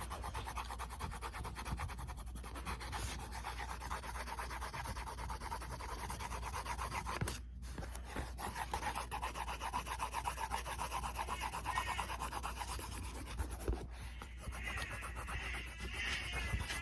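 A drawing tool rubbing on paper in fast, even back-and-forth strokes, colouring in an area of a drawing.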